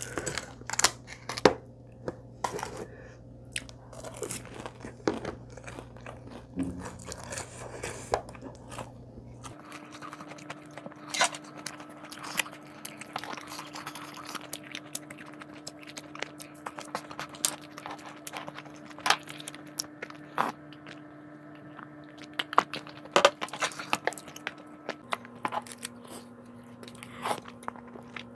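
A person eating close to the microphone: repeated crunching bites and chewing, with sharp mouth and food clicks scattered throughout.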